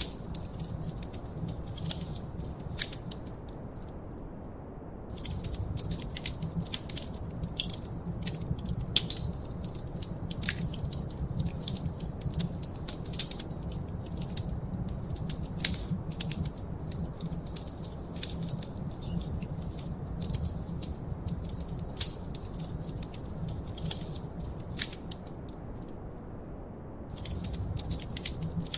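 Wood fire crackling and popping in a fireplace: dense, irregular sharp snaps over a low steady rumble of the burning fire. The crackles pause briefly twice, once about four seconds in and again near the end.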